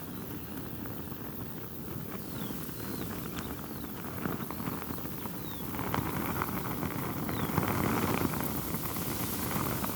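Thin silk veil flapping and fluttering rapidly in strong wind, mixed with the rush of wind; the flapping grows louder about six seconds in as a gust picks up.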